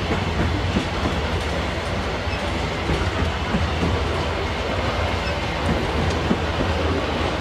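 Long freight train of covered hopper cars rolling past at close range: a steady heavy rumble with scattered clicks and knocks from the wheels on the rails.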